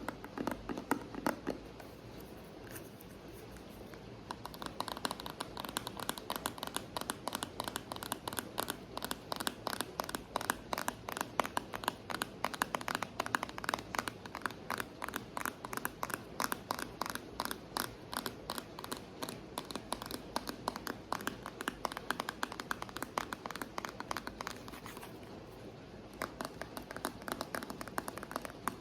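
ASMR tapping on an object: rapid, continuous light taps, many a second, easing off for a moment a couple of seconds in and again near the end.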